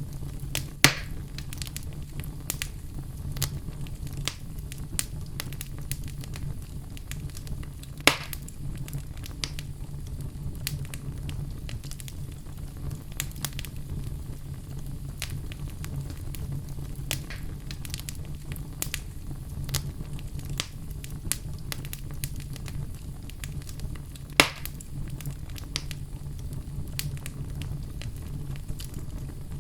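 Log fire crackling: a steady low rumble of flames with a constant scatter of small crackles. Three sharper, louder pops come about a second in, around eight seconds in, and about three quarters of the way through.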